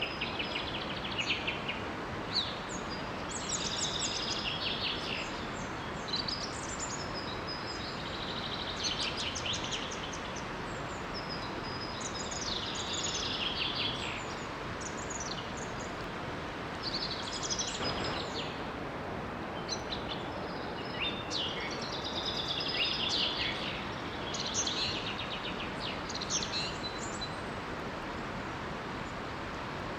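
Songbirds singing in short bursts of rapid trills and chirps over the steady rush of a small waterfall.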